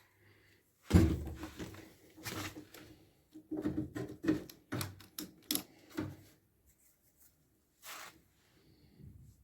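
A heavy thump about a second in, then a run of irregular knocks and clunks, and one more knock near the end: parts of a washing machine being handled during its teardown.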